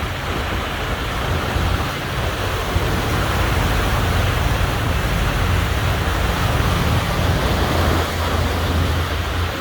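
Steady rushing of wind and river water with a low, buffeting rumble, as heard aboard a boat crossing the river.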